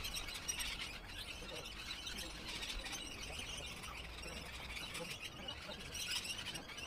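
Birds chirping and calling, many short overlapping calls.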